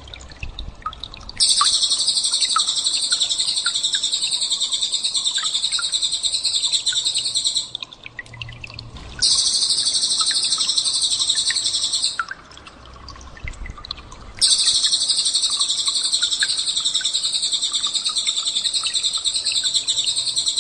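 Small songbird's rapid, high-pitched trilling 'tembakan' call, in three long unbroken runs of several seconds each with short pauses between, and faint scattered chirps in the pauses.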